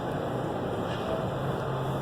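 Steady background din of a crowded exhibition hall: a constant wash of indistinct noise with a faint low hum underneath, and no single sound standing out.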